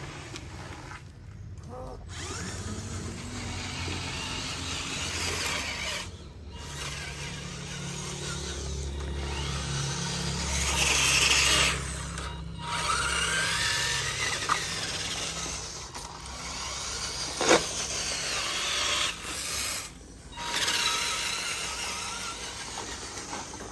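Small electric motors and gearboxes of radio-controlled trucks whirring and grinding, in several segments broken by brief gaps, with a rising whine near the middle and a single sharp click later on.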